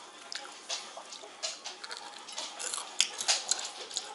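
Crunching and chewing of crispy homemade fried chicken crust: a dense run of sharp, irregular crackles, loudest about three seconds in.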